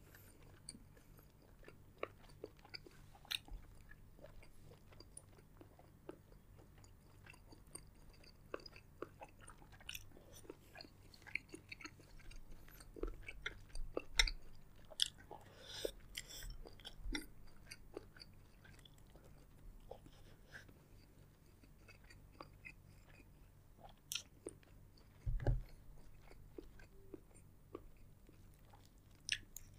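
Close-miked chewing and biting of seafood boil, with many short clicks and crunches coming thickest about halfway through and a low thud near the end.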